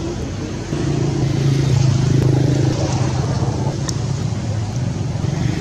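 A motor vehicle engine running steadily, its hum growing louder about a second in.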